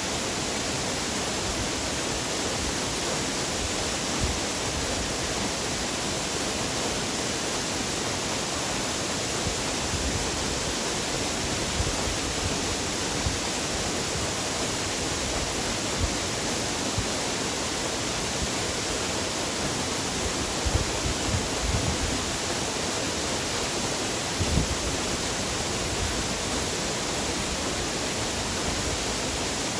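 Waterfall rushing in a steady, even roar of falling water, with a few brief low thumps scattered through it.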